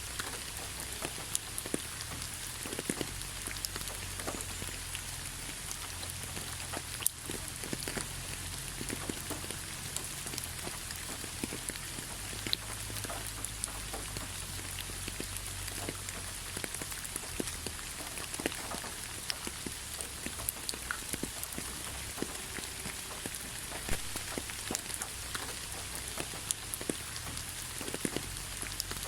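Steady rain falling, with a constant hiss and many distinct raindrops ticking and pattering on surfaces close by.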